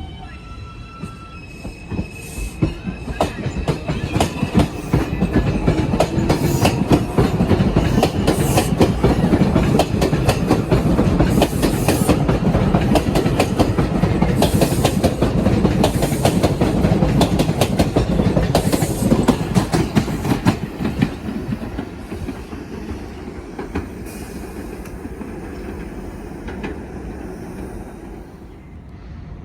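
New York City Subway 4 train (R142 cars) pulling out and running past, its wheels clicking rapidly over rail joints with brief wheel squeals. It builds over the first few seconds, stays loud through the middle, and fades away in the last several seconds.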